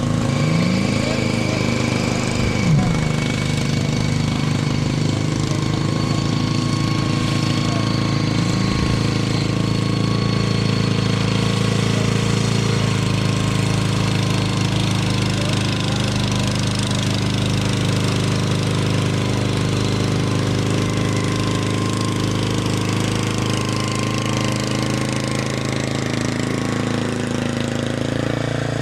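Gilson garden tractor's small engine running steadily and hard under heavy load as it tows a car that has a locked rear wheel, with a brief rise in engine pitch near the start.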